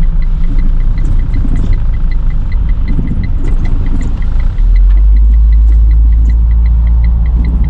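Car cabin noise while driving: steady engine and road rumble that grows heavier and deeper about halfway through. A faint, even, high tick repeats about four times a second throughout.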